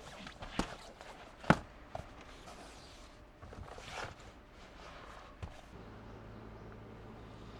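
Footsteps and the handling of gear, with scattered clicks and knocks, the sharpest about a second and a half in. A low steady hum starts about six seconds in.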